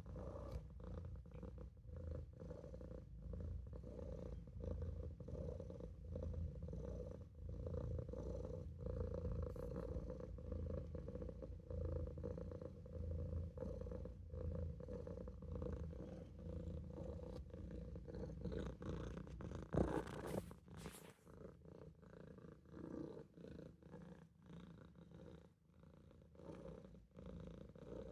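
Maine Coon kitten purring steadily in close, a low pulsing rumble. A brief sharp thump breaks in about two-thirds of the way through.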